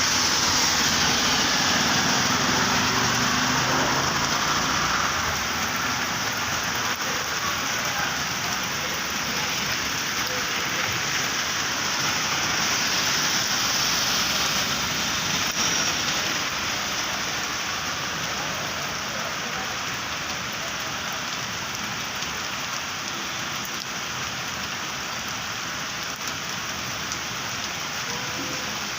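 Steady rain falling on a flooded road, spattering on standing water and pavement. It eases slightly after about fifteen seconds.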